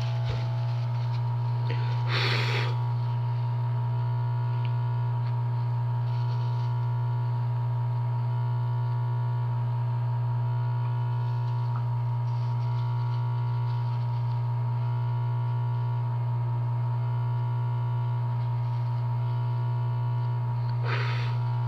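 Steady, loud electrical mains hum with a fainter high steady tone above it, broken by two short hisses about two seconds in and near the end.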